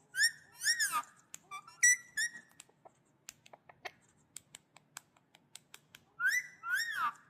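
Pet parrot whistling: two whistled notes that rise and fall, then a few shorter chirpy notes, a run of sharp clicks, and two more rise-and-fall whistles near the end.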